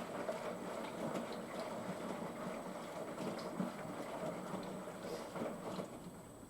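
Front-loading washing machine taking in water at the start of its wash, a steady rushing fill with small ticks and knocks, which falls away about six seconds in as the fill cuts off.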